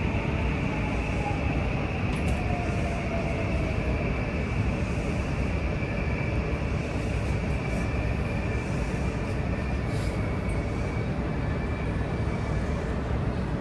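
Running noise of a JR West 323-series electric train heard inside the passenger car: a steady rumble of wheels on rail. A faint whine falls in pitch over the first few seconds.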